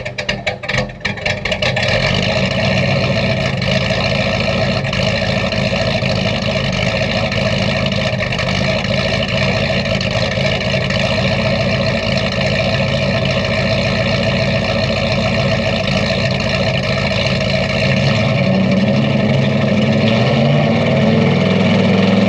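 Ford 400 V8 of a 1980 F-150 on a cold start: the starter cranks with rapid regular pulses for about two seconds, then the engine catches and runs steadily. Near the end the engine speed rises a little.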